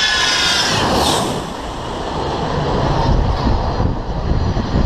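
Jet airliner noise: an engine whine fades over the first second or so into a loud, steady low rumble.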